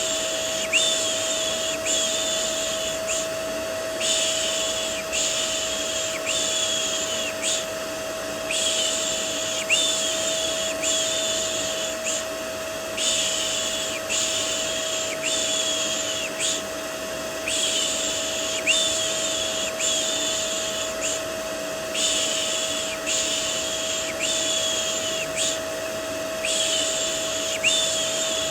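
Rhythmic 'shh' shushing, one stroke a little faster than once a second, in runs of about five with short breaks between runs, over a steady vacuum cleaner drone with a constant hum.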